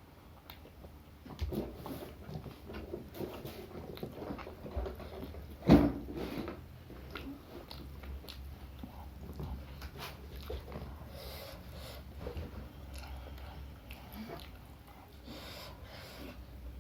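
Close-up chewing and crunching of fried vegetable fritters and raw garlic, with small wet mouth clicks. There is one sharp thump about six seconds in.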